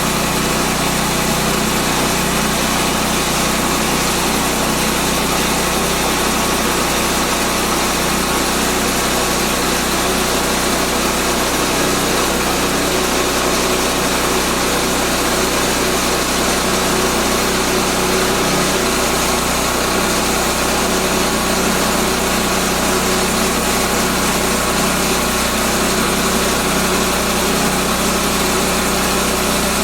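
Gas engine of a Woodland Mills portable bandsaw mill running steadily at a constant pitch while milling a pine log.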